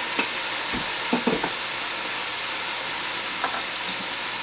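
Chicken pieces frying in hot oil in an open aluminium pressure cooker, its lid off at the end of pressure frying: a steady sizzle and bubbling. A few light knocks come about a second in, and one more near the end.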